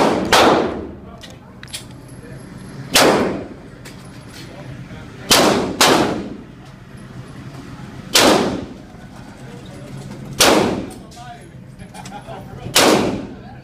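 About eight gunshots from a 9mm pistol-calibre carbine fired one at a time, two to three seconds apart, with a pair in quick succession at the start and another near six seconds in. Each shot has a short echoing tail.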